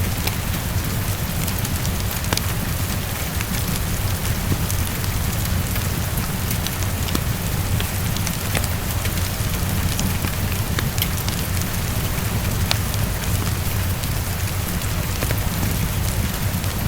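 Heavy rain falling steadily against a window, with a steady low rumble underneath and scattered sharp crackles of a wood fire.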